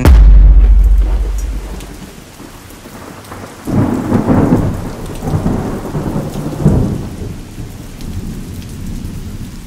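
A loud, deep thunderclap right at the start, rumbling away over about two seconds, over steady rain. More thunder rolls in about four seconds in and again near seven seconds, while the rain keeps falling.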